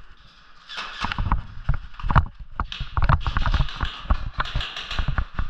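Quick, uneven footsteps and thumps of a player moving fast, starting about a second in.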